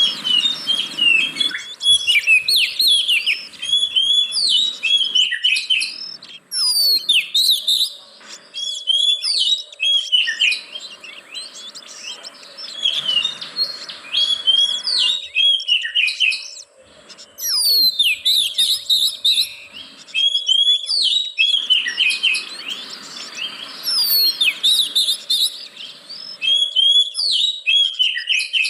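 Oriental magpie-robin (kacer) song: rapid, varied high whistles and chattering notes in phrases a few seconds long, with short pauses between them. This is a lure song, played to prompt a kacer that is reluctant to sing.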